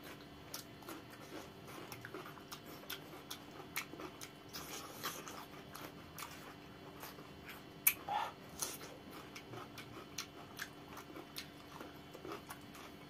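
Close-up eating sounds of two people biting and chewing crisp raw cucumber slices and noodles: irregular crunches and wet mouth clicks, with one sharper crunch about eight seconds in.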